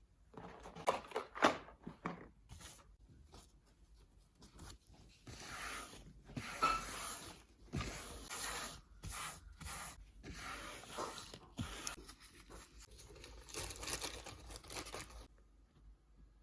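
Irregular rustling and tearing sounds of material being handled, with short sharp clicks.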